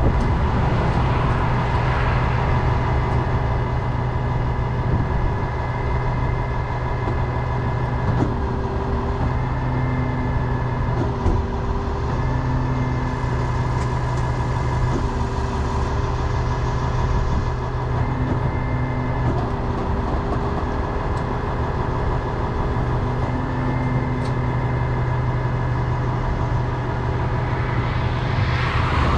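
Heavy wrecker's engine running while its winch pulls a truck up onto blocks; a whining tone above the engine hum starts, stops and steps in pitch several times as the winch is worked.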